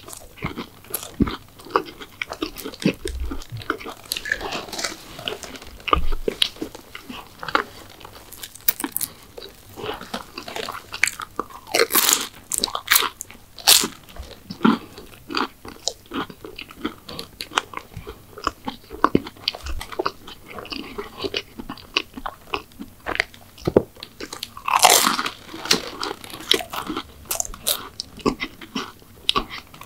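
Close-miked biting, crunching and chewing of McDonald's sweets, a steady run of crisp crackling bites with louder crunches about twelve and twenty-five seconds in.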